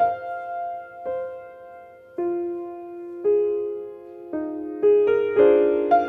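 Solo piano played slowly: notes and chords struck about once a second and left to ring and fade, coming faster and fuller near the end.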